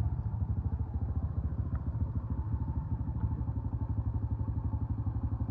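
An engine idling steadily, with an even low pulse of roughly a dozen beats a second.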